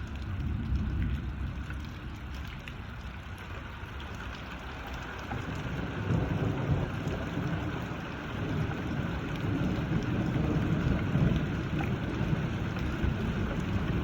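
Steady rain falling, with a low rumble that swells about halfway through.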